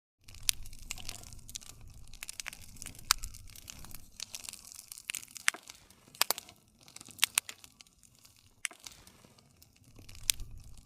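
Wood fire crackling: irregular sharp pops and snaps over a soft low rumble of flames.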